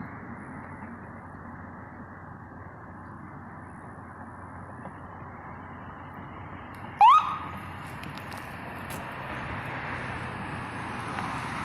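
A fire engine approaching, its engine rumbling steadily, with one short siren chirp, a quick rising whoop, about seven seconds in. The engine grows louder near the end as the truck comes closer.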